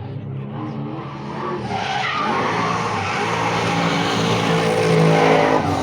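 Rally car coming past with its engine running and its tyres skidding, growing louder from about two seconds in.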